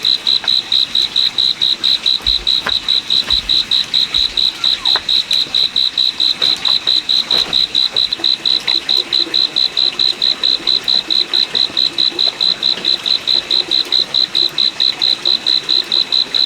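Insect chirping: a loud, even, high-pitched pulsing call of about five pulses a second, repeating without a break.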